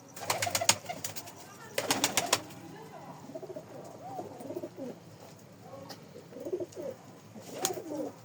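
Domestic pigeons cooing, a string of low rising-and-falling coos. Two quick runs of sharp clicks come in the first couple of seconds.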